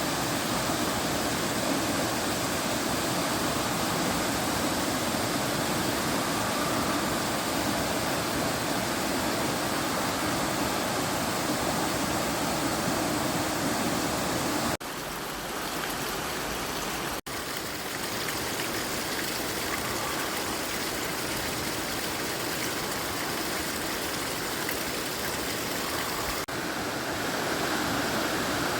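Steady rush of a waterfall and creek, with water falling and running over rocks. The sound changes abruptly about 15 seconds in, cuts out for an instant about two seconds later, and shifts again near the end, as at a cut between shots.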